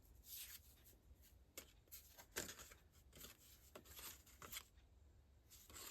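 Faint, short scratchy strokes of paper being cut by hand with a craft blade on a cutting mat, about one stroke a second.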